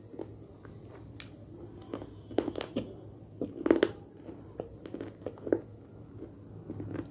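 A person biting and chewing a hard, crunchy earthy material close to the microphone: irregular sharp crunches and crackles, loudest a couple of times near the middle.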